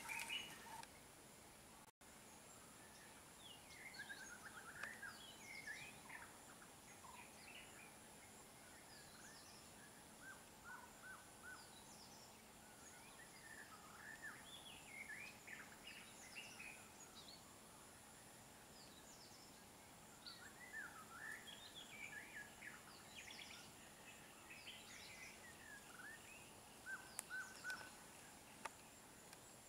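Faint bird calls: short chirps and whistles scattered throughout, over quiet outdoor ambience with a faint steady high tone behind.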